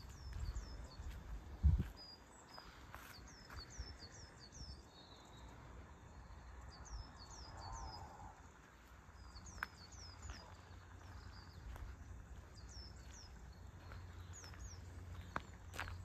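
A small bird calling repeatedly with short, high, curving chirps in quick runs, over a low outdoor rumble, with a thump about two seconds in.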